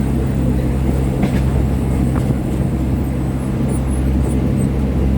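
Diesel passenger train running: a steady, loud low drone with a couple of faint clicks.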